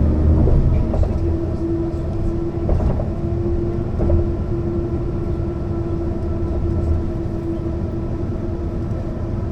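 Mercedes-Benz O 405 NÜ low-floor bus under way, heard from on board: a steady low rumble from the diesel drivetrain with an even whine held throughout, and a few light rattles in the first few seconds.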